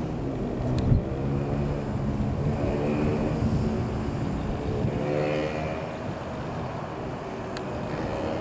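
Piston engine of a TL-3000 Sirius light aircraft running, its pitch shifting up and down, with a falling glide around the middle. A single thump about a second in.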